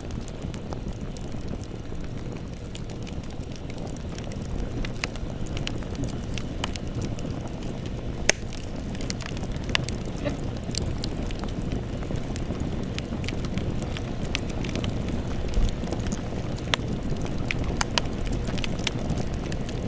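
Wood campfire burning: a steady low rumble with irregular sharp crackles and pops, one louder pop about eight seconds in.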